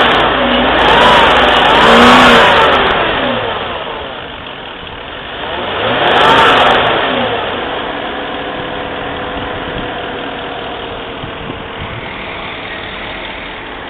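Warmed-up car engine revved up and back down twice in quick succession, revved once more about six seconds in, then settling to a steady idle.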